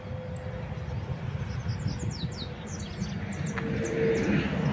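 A bird calling in a quick run of short, high, falling chirps over the steady low rumble of highway traffic, which grows a little louder near the end.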